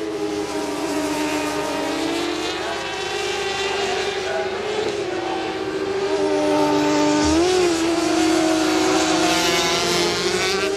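Several 400 cc supersport racing motorcycles running at high revs, their overlapping engine notes rising and falling as they accelerate and change gear. One note wobbles briefly about seven seconds in.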